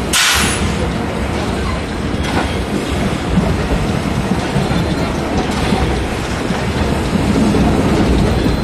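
Steam-hauled passenger train running along the track, heard from a coach window: a steady rumble and clatter of wheels on rails mixed with rushing air, with a short burst of hiss at the very start.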